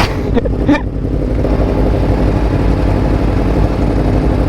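Sportbike engine idling steadily.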